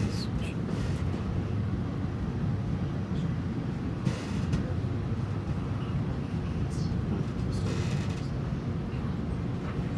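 Metra commuter train running with a steady low rumble, with a few short higher-pitched sounds over it.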